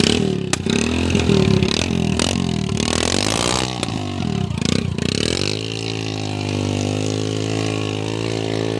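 Tractor engine starting up. It runs unevenly with revs for about five seconds, then settles into a steady idle.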